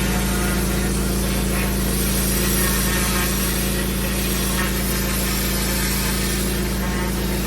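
Pressure washer running steadily: a constant engine-pump hum with the hiss of high-pressure water spraying over it.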